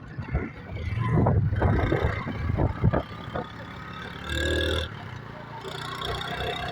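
Yamaha YBR motorcycle on the move, its engine running under heavy wind buffeting on the microphone. A brief steady tone sounds about four seconds in.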